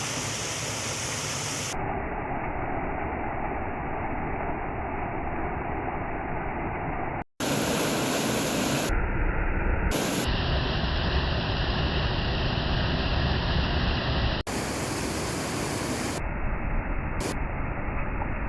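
Waterfall water rushing as a steady roar of noise, made of several clips joined together. The character changes abruptly at each cut: some clips sound dull and muffled, others brighter or with a heavier low rumble, and the sound drops out briefly about seven seconds in.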